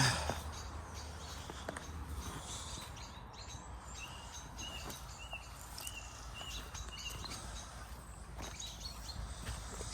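Quiet outdoor ambience: a small bird gives a run of short chirps, about two a second, through the middle, over a low steady rumble with a few faint steps or clicks.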